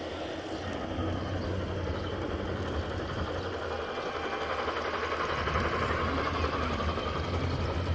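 Outdoor garden-railway model train running along its track, growing slowly louder over a steady low hum.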